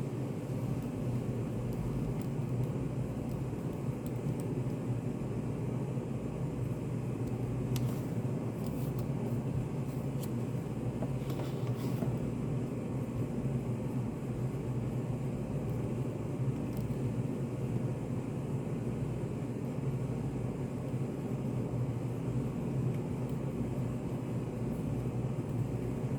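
Steady low hum of a study café's room ambience, with a few faint clicks around the middle.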